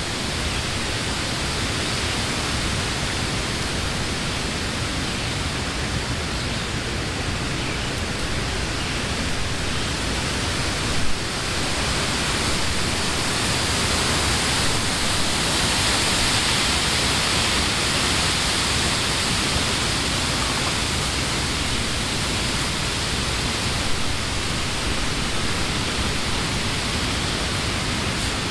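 Wind blowing through trees: a steady rustle of leaves that swells in a gust partway through.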